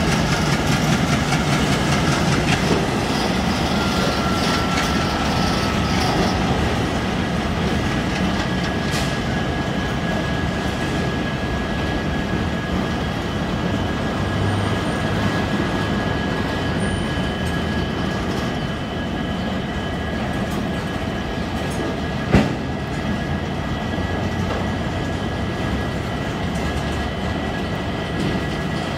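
Covered car-carrier freight wagons rolling past on the rails: a steady rumble and clatter of wheels over the track, easing slightly after the first few seconds, with a thin steady high whine above it. One sharp bang about 22 seconds in.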